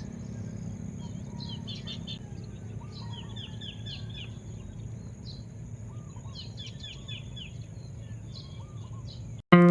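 Birds chirping in repeated quick series of short chirps over a steady low rumble of outdoor background noise. Near the end the ambience cuts off abruptly and plucked guitar music starts.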